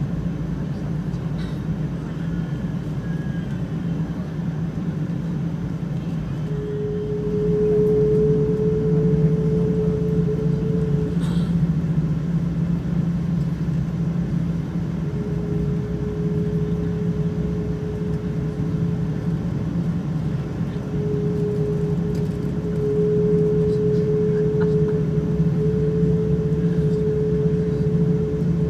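Cabin noise inside a Boeing 777-200ER: a steady low rumble from the aircraft's engines and airframe, with a steady hum that comes in about seven seconds in and returns twice more.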